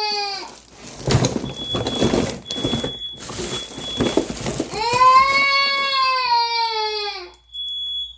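A young child crying in long, falling wails: one tails off just after the start and another runs from about five seconds in, with noisier sobbing between them.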